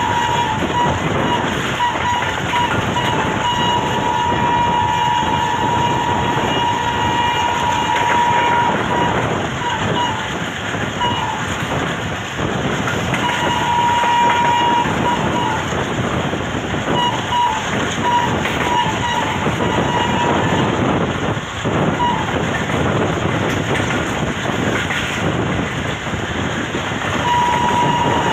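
Express passenger train running at high speed, a continuous rumble and clatter of wheels on rails. The locomotive's horn sounds repeatedly as a steady single tone: long blasts broken by runs of short toots, with a new long blast starting near the end.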